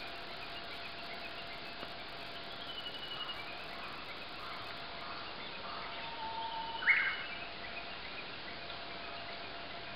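Wild birds calling over a steady background hiss: a few faint, thin whistled notes, and one louder, short call about seven seconds in.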